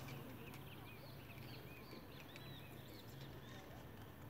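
Faint birdsong: a bird giving a quick series of short, high chirps over a low, steady background hum.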